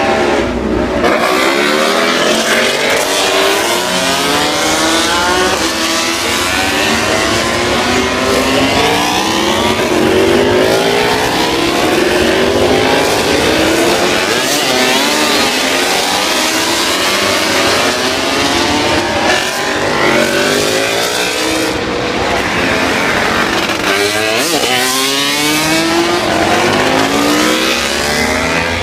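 Several Moto2 racing motorcycles, with Honda 600 cc four-cylinder engines, revving up and down as they ride out of the pits. Their overlapping engine notes keep rising and falling without a break.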